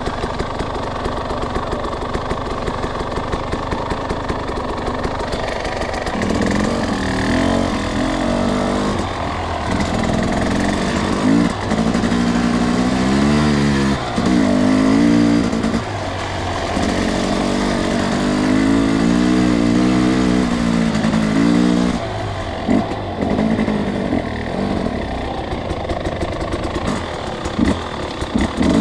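Two-stroke dirt bike engine running at low revs, then pulling through repeated rises and falls in pitch as the throttle is opened and eased. Short sharp throttle blips come near the end.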